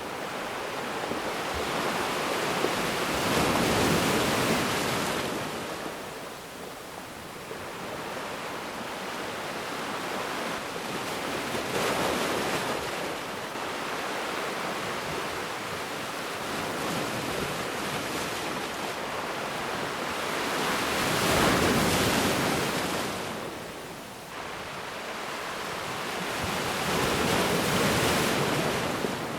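Ocean waves breaking and washing on a shore, each one swelling and fading in a slow cycle, with four larger breaks.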